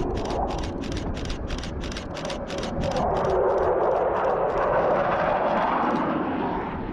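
Jet aircraft noise that swells about three seconds in and fades again, over a steady low rumble, with a quick run of sharp clicks, about four a second, that thin out after a few seconds.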